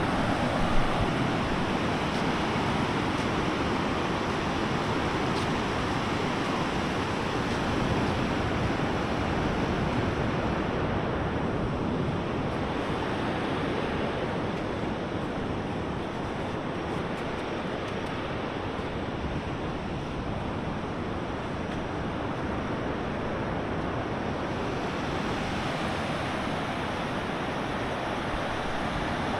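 Big surf breaking on a sandy beach: a steady rush of waves, with a short bump about a second in.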